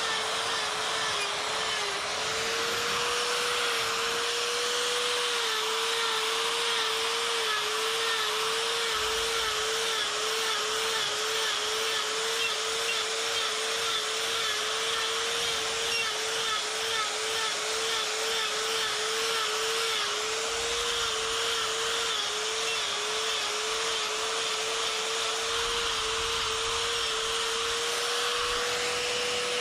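Die grinder with a Saburrtooth flame burr cutting fur strokes into wood. Its steady high motor pitch dips about twice a second as the burr bites into the wood and recovers between strokes, running free at full pitch for a moment a few seconds in and again near the end.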